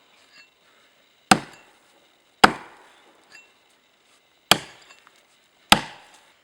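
Axe chopping through a wooden pole: four sharp strokes, unevenly spaced, each with a short ringing decay.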